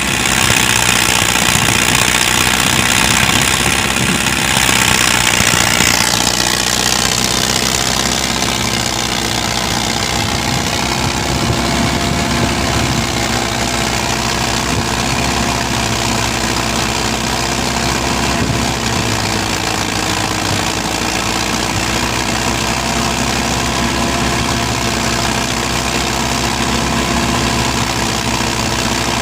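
Preet 6049 tractor's diesel engine running steadily while coupled to a thresher. A loud high hiss with a thin whistle-like tone in the first six seconds stops suddenly.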